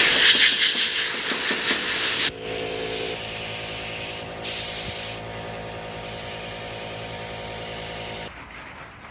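Steady hiss of compressed air from a shop air tool over a steady machine hum. The hiss is loudest for the first two seconds, then drops, and both cut off suddenly about eight seconds in.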